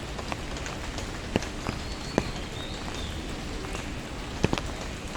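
Rain pattering in a steady hiss, with scattered sharper drips or ticks, the loudest about a second and a half, two seconds and four and a half seconds in.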